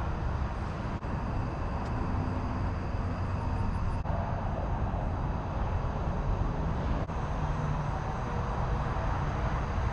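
Steady rumble of vehicle traffic, a continuous low noise with no distinct events.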